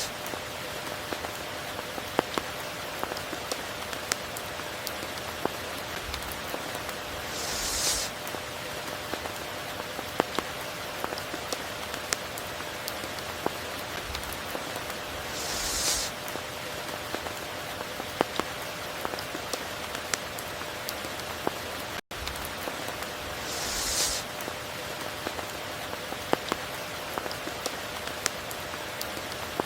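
Steady tropical rain with sharp clicks of single drops striking close by. A hissing swell rises and cuts off about every eight seconds, and the sound drops out for an instant a little past the middle.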